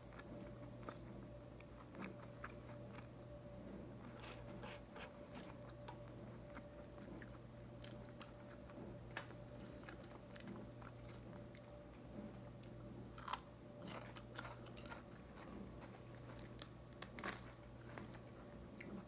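Close-miked chewing and crunching of a bulgogi lettuce wrap: faint, scattered wet mouth clicks and crisp crunches, with a few louder bites, over a low steady hum.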